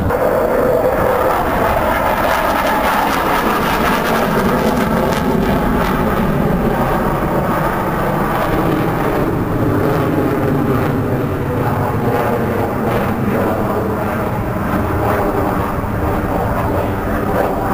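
Jet fighter in flight, its loud engine noise continuous, with tones that slowly glide in pitch.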